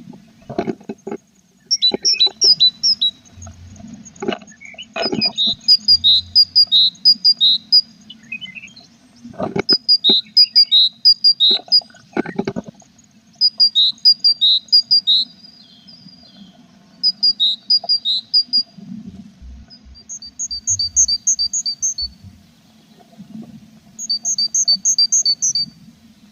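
Tits in a nest box calling in repeated one-to-two-second bouts of rapid, high chirps. Several knocks against the box come in the first half.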